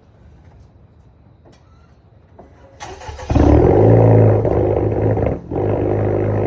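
2022 Acura TLX's 2.0-litre turbocharged four-cylinder, with its mufflers and resonators deleted, cold-starting: about three seconds in the starter cranks briefly, the engine catches with a loud flare, dips for a moment, then settles into a steady cold idle.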